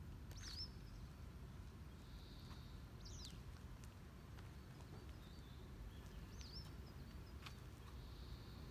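A bird giving a short high call that rises and falls, three times about three seconds apart, over a low steady background rumble.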